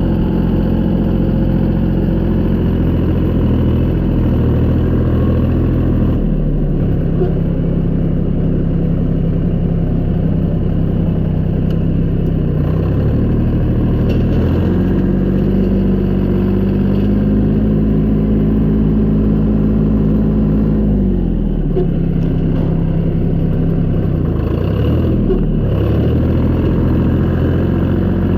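Tractor engine running steadily, its speed dropping about six seconds in, rising again around the middle and dropping back a little later.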